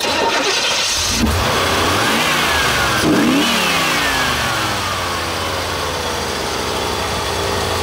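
Chevrolet L98 5.7-litre small-block V8 from a 1985 Corvette starting on the key, catching about a second in. It is revved up twice and then falls slowly back to a steady idle.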